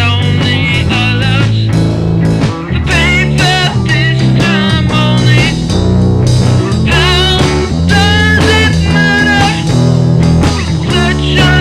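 Psychedelic rock music: a steady guitar-and-bass backing with a wavering lead line above it.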